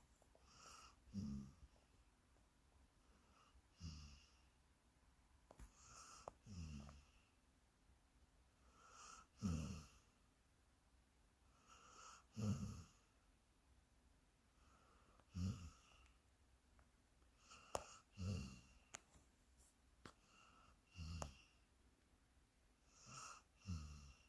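A dog breathing with soft wheezy, snore-like squeaks, one every two to three seconds in an even rhythm.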